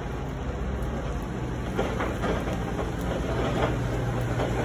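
Car engine running at low speed with its steady low hum as the vehicle pulls into a parking space on wet tarmac.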